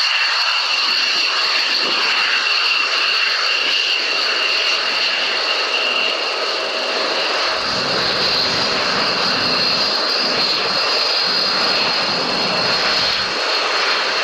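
Aircraft turbine engine running steadily, a loud rush of noise with a steady high-pitched whine.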